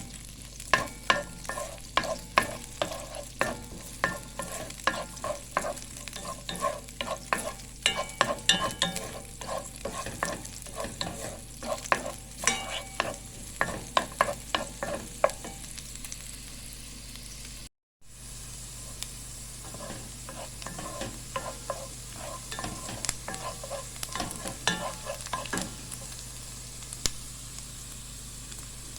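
Food sizzling in a pan while a spoon stirs it, with many quick knocks and scrapes of the utensil against the metal pan. The sound cuts out for an instant about two-thirds of the way through, then the stirring goes on more sparsely.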